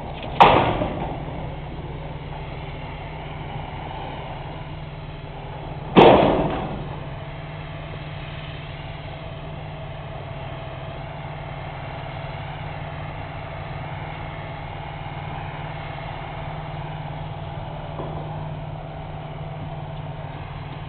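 Two loud clangs of steel rails dropping and striking, one just after the start and one about six seconds in, each ringing briefly, over a tractor engine running steadily.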